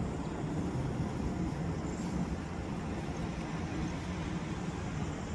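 Heavy haul truck engine running with a steady low rumble that holds an even level throughout.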